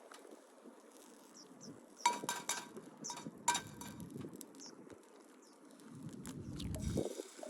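Light metallic clinks: a few taps in quick succession about two seconds in and another about three and a half seconds in, each ringing briefly, with small pops and a low rumble near the end.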